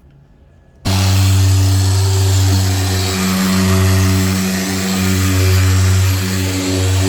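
A loud motor runs steadily with a strong hum and a wide hissing rush, cutting in suddenly about a second in.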